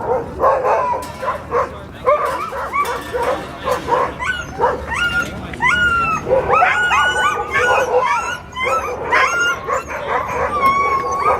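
Many sled dogs barking, yipping and whining together in overlapping high, rising and falling calls, the excited clamour of a team waiting for a race start.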